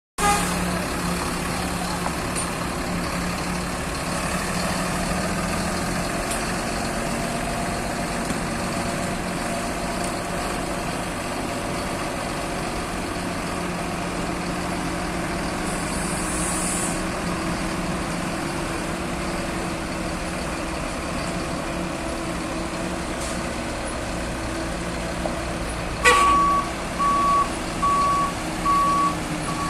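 2006 Freightliner M2 tractor's diesel engine running steadily, with a brief hiss of air about halfway through. Near the end a click is followed by a reversing alarm beeping about once a second.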